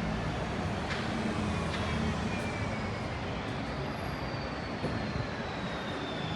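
City street traffic: a vehicle running close by, with a faint high whine that slowly falls in pitch across a steady background of traffic noise. Two light clicks come about a second in.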